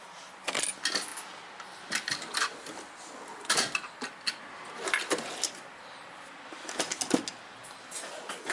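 Metal hand tools clinking and clattering: irregular sharp clicks and knocks, some in quick clusters, as wrenches and sockets are handled.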